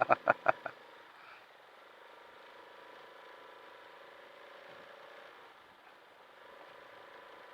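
Benelli Zafferano 250 maxiscooter engine running faintly and steadily at low speed in traffic, with a short burst of laughter-like voice pulses in the first second.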